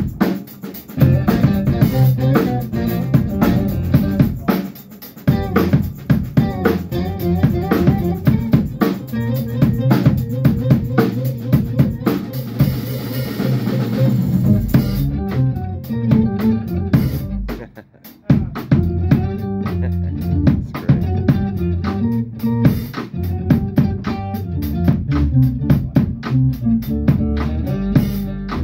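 Band music: a drum kit with snare and bass drum keeping a steady beat under guitar and bass, with a short break about eighteen seconds in before the band comes back in.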